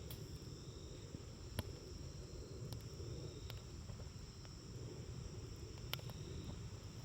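Wood campfire burning with a steady low rustle and scattered sharp crackles and pops, the loudest about a second and a half in and again near six seconds. A steady high chirring runs behind it.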